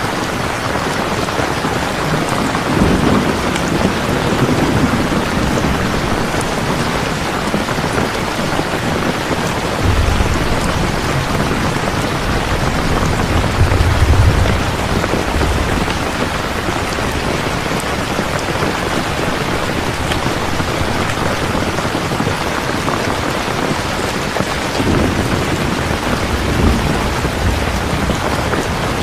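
Steady heavy rain with rolls of low thunder rumbling several times, the loudest about halfway through.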